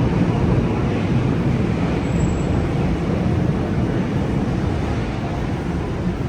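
Steady, loud outdoor noise of wind buffeting the microphone in heavy rain, mixed with street traffic.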